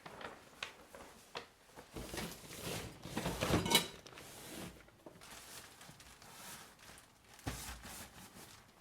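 Kitchen items being handled and put away: a series of light knocks and clicks, with a louder clatter that rings briefly about three and a half seconds in.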